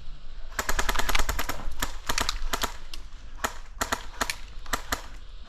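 Airsoft guns firing: a rapid burst of sharp snapping shots about half a second in, followed by shorter strings and single shots.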